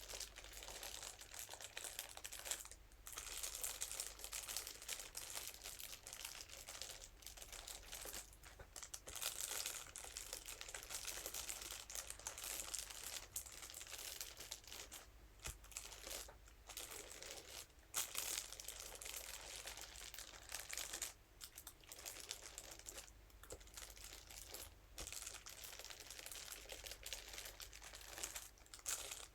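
Continuous close-up crinkling and scratching as a scalp massage brush is rubbed over crinkly material, with a few short pauses.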